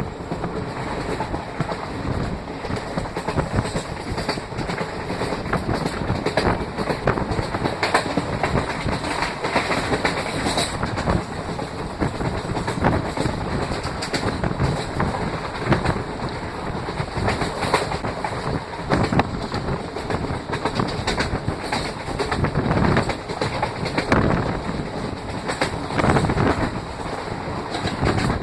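A moving passenger train heard from inside a carriage by an open window: steady rumble and rushing air with the clickety-clack of wheels over rail joints.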